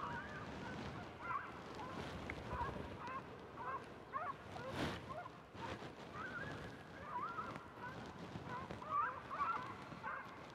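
Birds calling with short, wavering clucking notes, repeated in small groups; a brief rush of noise about halfway through.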